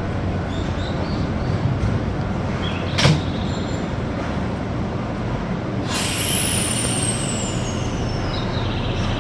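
Nankai electric train pulling out of a station. A short hiss comes about three seconds in. About six seconds in there is a sharp burst, then a high whine that glides steadily downward as the train gets under way.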